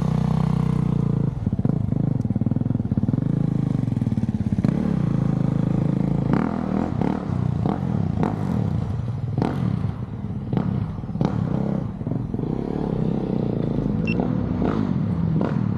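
Dirt bike engine running at a fairly even, low pitch, with repeated knocks and clattering sounds throughout, thickest in the middle of the stretch.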